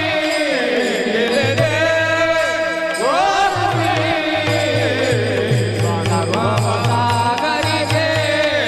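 Devotional kirtan singing: a voice sings a melody over a steady held drone, with a drum keeping a regular beat.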